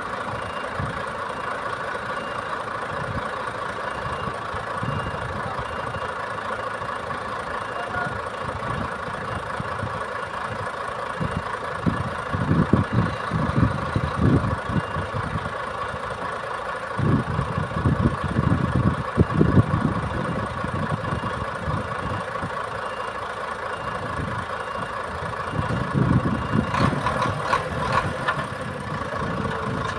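Heavy truck diesel engine idling steadily with a constant whine, rising to a louder low rumble in several stretches.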